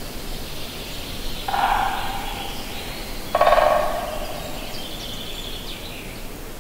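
A large bird calls twice, about two seconds apart, each call short and loud, over a steady rushing hiss. Fainter, higher chirps come near the end.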